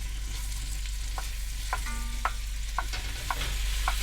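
Ground beef sizzling in butter in a Dutch oven, stirred, with a utensil clinking sharply against the pot about six times.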